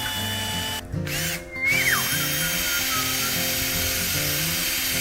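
Power drill pre-drilling a hole in wood: a short run, two brief stops within the first two seconds, then a steady run of about three and a half seconds before it stops.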